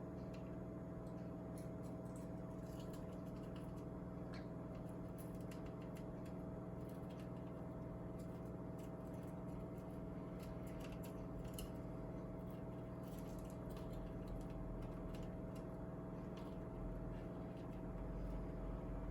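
Scattered light clicks and taps from a green-cheeked conure's beak and feet working at a foraging toy to get at sunflower seeds, over a steady hum.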